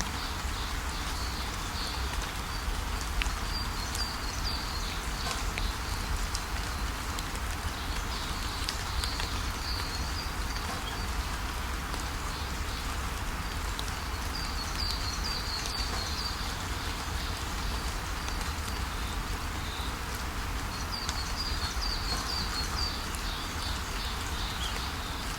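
Steady rain, with birds chirping in short high bursts about four times, and a constant low rumble underneath.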